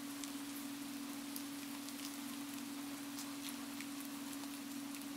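Recorded rain: a steady hiss of rainfall with many small drop ticks scattered through it, over a steady low hum.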